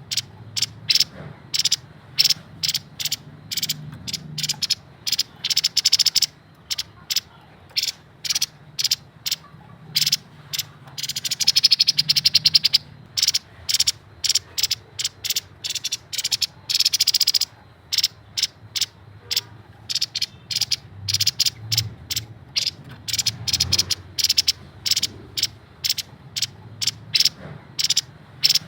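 Grey-headed babbler calling in a rapid series of short, sharp chattering notes, broken by a longer buzzy trill about eleven seconds in and another about seventeen seconds in.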